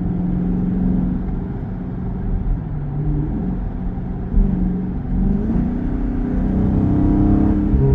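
Chrysler 300C's 6.4-litre HEMI V8 running through its mufflered exhaust while driving. The engine note holds steady, drops about three seconds in, then climbs from about five seconds in as the car accelerates.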